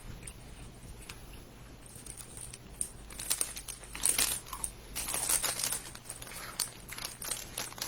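Snack bag of crispy potato sticks crinkling and crackling as hands reach in and take some, in quick bursts of crackles from about three seconds in.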